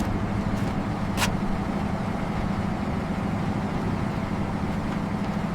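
A steady engine drone running at an even pitch, with one short click about a second in.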